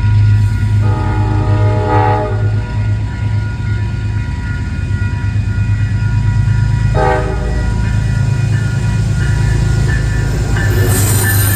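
Diesel train engine running with a steady low rumble while the train pulls away, its multi-tone horn sounding about a second in and again in a short blast about seven seconds in.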